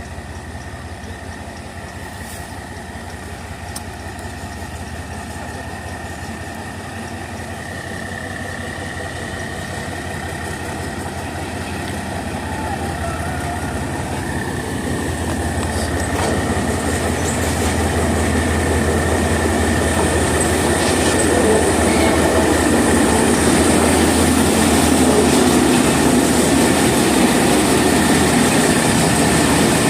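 A train approaching slowly, its engine hum and running noise growing steadily louder. A steady high-pitched squeal sounds over it.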